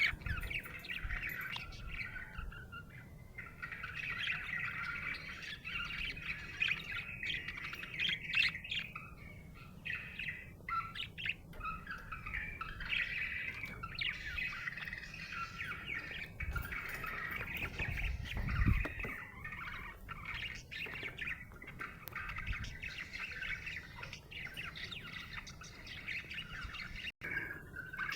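Budgerigar chirping and chattering without a break, a dense run of short high chirps and warbles with occasional squawks. A brief low thump sounds about two-thirds of the way through.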